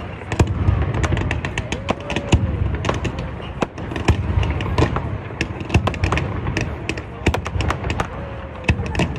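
Fireworks display: a rapid, irregular series of bangs and crackling pops from aerial shells bursting, several a second, over a continuous low rumble.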